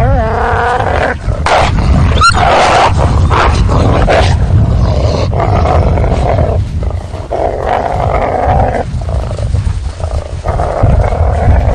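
Wolves growling and snarling in repeated rough bouts, with a wavering, whining call at the start.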